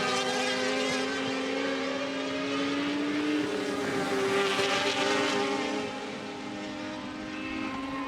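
Several road-racing motorcycle engines running hard at high revs, their overlapping pitches holding and shifting slowly as the bikes race together; a little quieter after about six seconds.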